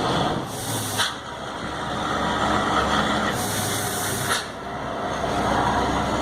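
Scania P94 truck's diesel engine running and being revved, its turbocharger fitted with a 'pente' comb insert to make it whistle. Two hissing bursts, about half a second in and again after three seconds, each cut off sharply.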